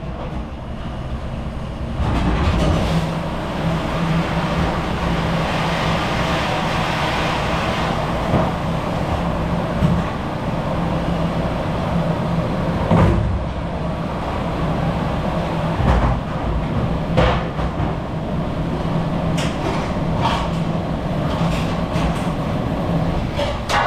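A machine runs steadily with a low hum and a hiss, and now and then something knocks or clatters.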